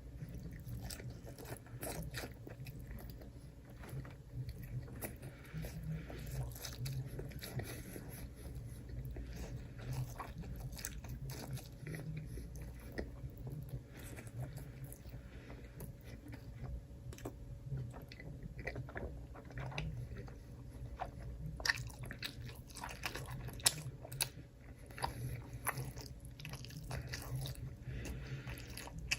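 Close-miked chewing and biting into crunchy food: irregular crisp crunches, with a few sharper, louder bites in the second half.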